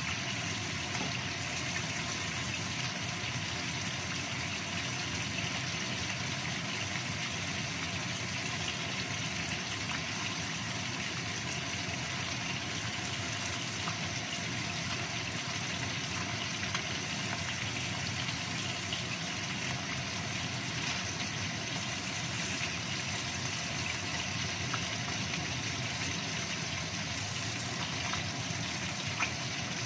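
Salmon steaks frying in oil in a wok: a steady sizzle with scattered small pops.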